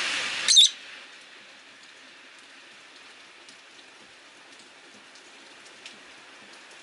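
Steady rain falling outside a window, an even hiss with scattered faint drips. About half a second in, a louder rushing noise cuts off with a brief shrill burst.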